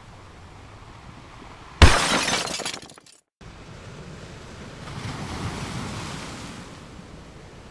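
Excavator work at a construction site: a sudden loud crash of soil and rock being tipped from a Cat excavator's bucket, dying away over about a second before the sound cuts off. Then dump trucks drive over a wet, muddy dirt road, a rushing noise that swells as one passes close.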